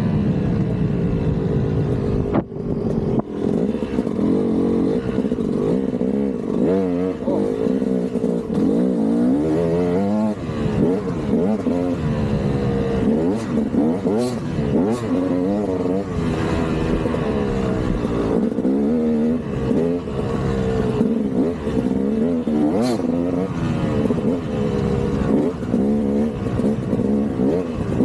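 KTM 200 single-cylinder two-stroke dirt bike engine revving up and down over and over as it is ridden on a trail, its pitch rising and falling every second or so, with a brief throttle-off dip a couple of seconds in. A few sharp knocks are heard, one around halfway through and another later on.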